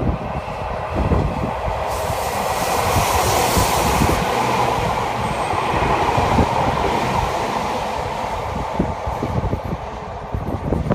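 Nagano Electric Railway electric local train passing, its wheels rumbling and clacking over the rails. The sound swells over the first couple of seconds, holds, then fades away near the end, with wind buffeting the microphone.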